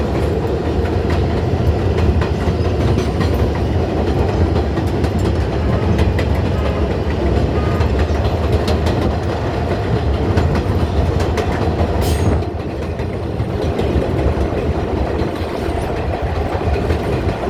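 R142A subway train running along the elevated track, a steady rumble with wheels clicking over rail joints. A sharp noise comes about twelve seconds in, after which it runs a little quieter.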